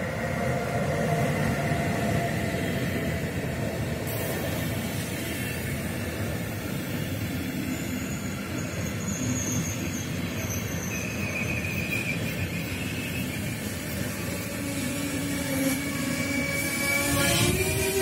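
Deutsche Bahn class 101 electric locomotive and its Intercity coaches rolling past: a steady rumble of wheels on rail, with faint wheel squeal partway through.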